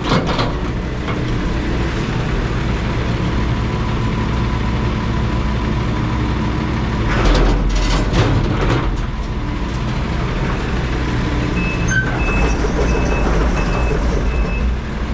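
Heavy diesel machinery running steadily, getting louder for a moment about halfway through. Near the end come a run of short, evenly spaced high beeps.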